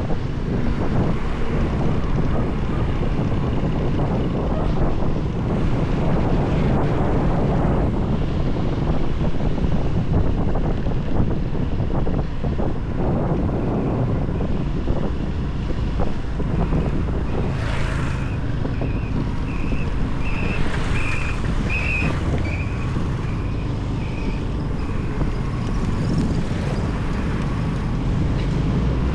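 Wind buffeting the microphone over motorbike engine and road noise while riding on a highway. Past the middle, a run of short high beeps sounds about twice a second for several seconds.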